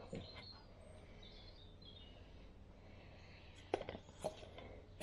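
Quiet workshop background hiss with a few faint, high bird chirps coming in through an open door, then a couple of soft knocks near the end.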